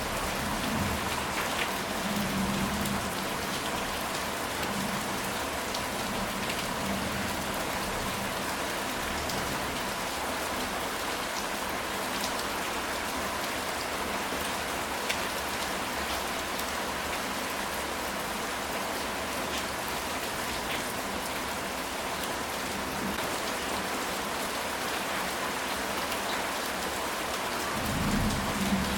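Steady heavy rain falling on a ceramic tile roof, an even hiss of drops. Low thunder rumbles in the first few seconds and again near the end.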